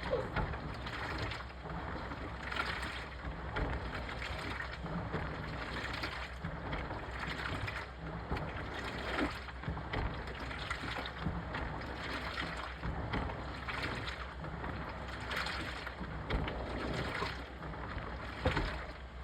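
Washing machine running its wash, water sloshing in the drum in soft swells that come back about every second.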